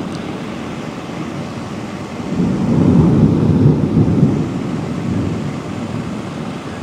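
Thunder rumbling: a low rumble swells about two seconds in and dies away over the next two seconds, over a steady background hiss of light rain.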